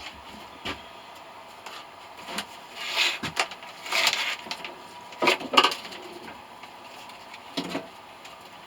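A few short bursts of clattering and scraping, as of hard objects being handled and knocked together, the loudest about halfway through.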